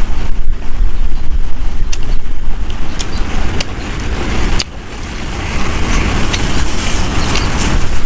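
Strong wind buffeting the microphone: a loud, heavy low rumble that drops away briefly a little past halfway, with a few faint sharp ticks over it.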